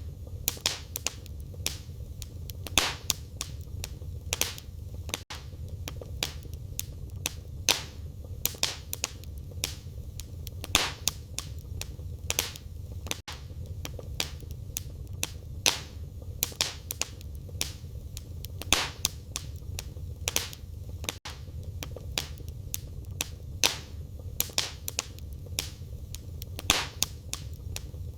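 Wood fire crackling in a fireplace: irregular sharp pops and snaps from the burning firewood over a steady low rumble of the flames.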